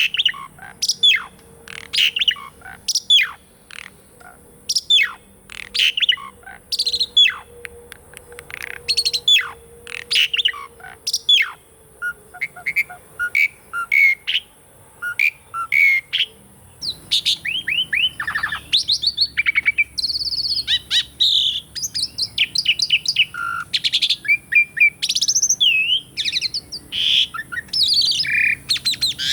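Asian pied starling (jalak suren) singing: first a string of sharp, falling whistled notes, about two a second, then from about halfway a faster, more varied run of whistles and chattering notes.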